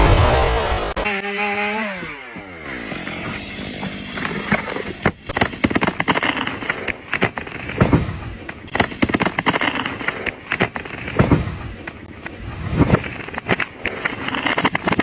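A chainsaw engine winding down, its pitch falling over about two seconds. It is followed by a long run of irregular sharp cracks and snaps with a few deeper thuds.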